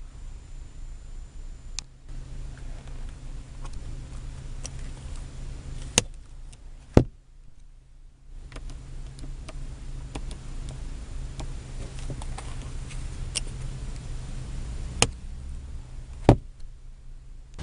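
Sharp clicks from parts of a car's interior being handled, a handful of times, over a low steady hum. Everything drops out briefly about seven seconds in.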